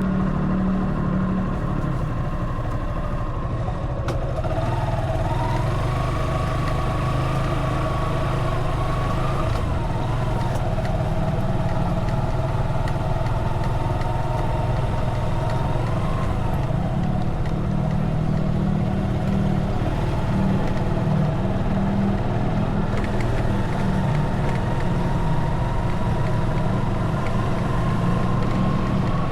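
Motorcycle engine running while riding, a steady low drone whose pitch rises and dips a little with the throttle.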